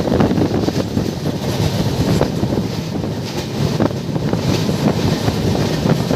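Moving passenger train running on the rails, a steady rumble with occasional brief clicks, with wind buffeting the microphone.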